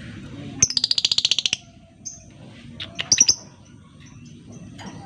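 Lovebird calling: a rapid rattling chatter of about fifteen harsh, shrill notes lasting about a second, then a short chirp and a few sharp shrill calls about three seconds in.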